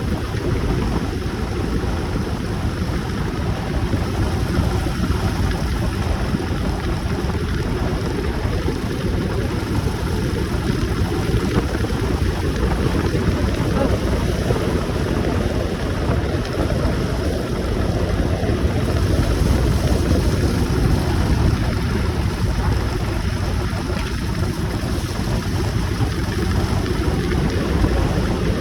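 Steady low wind rumble buffeting the microphone on a moving motorcycle, with the ride's road and engine noise mixed underneath.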